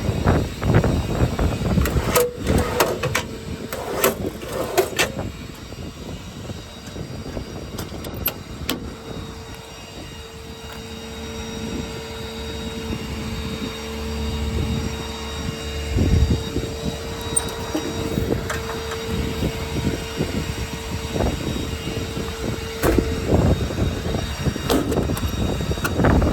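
Wind buffeting the microphone over a Ford 6.7 L Power Stroke V8 diesel idling. There are a few sharp knocks in the first few seconds, and a steady whine holds through much of the middle.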